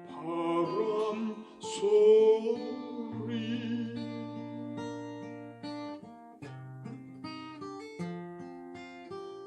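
Acoustic guitar plucking an arpeggiated slow go-go accompaniment. For the first few seconds a singer holds the song's last line on a long note with vibrato, then the guitar plays on alone.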